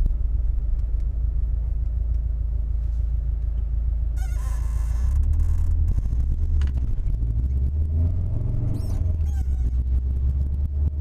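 Engine and road rumble inside a moving manual-transmission car, the engine note changing around a gear change about five seconds in. A few short high squeaks come from the clutch, like pressing a squeaky toy.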